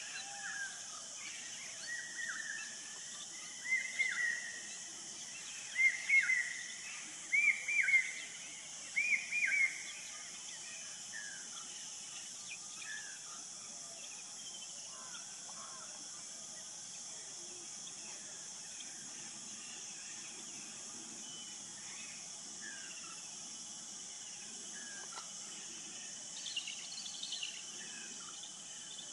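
Natural grassland ambience with a steady high hiss. A bird calls a series of arching whistled notes in twos and threes that grow louder and slightly higher over about eight seconds. Scattered fainter bird calls follow, with a brief higher cluster near the end.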